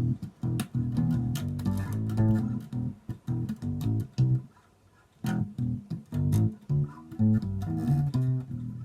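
Epiphone EB-3 electric bass played solo: a line of single plucked notes with finger clicks on the strings, broken by a short pause about halfway through.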